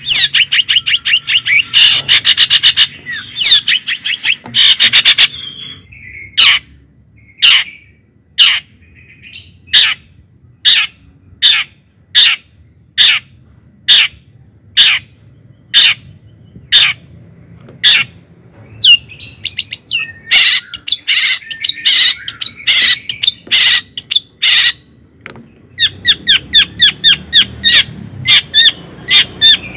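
Bird calling: rapid chattering runs of high chirps, then a long series of single sharp chirps about one a second, then fast runs again near the end.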